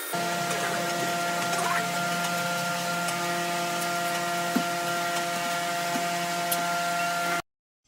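Electric woodworking machine running steadily with a hum and a hiss, a few faint ticks over it; the sound cuts off suddenly near the end.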